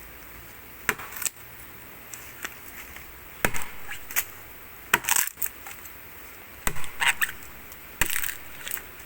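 Axe chopping into the trunk of a gaharu (agarwood) tree, a series of sharp, irregular strikes a second or so apart, cutting in to check the wood for resin.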